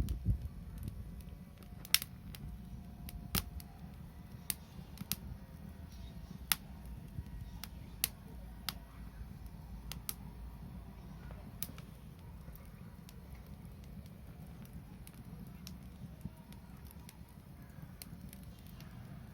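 Wood fire crackling: sharp pops at irregular intervals, a second or two apart and thinning out after about twelve seconds, over a low steady rumble.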